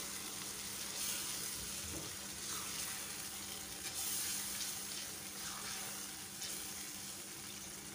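Beef mince and a wet onion-tomato paste sizzling and bubbling in a pot as they are stirred together with a silicone spatula, a steady frying hiss that eases slightly, with a few soft stirring strokes.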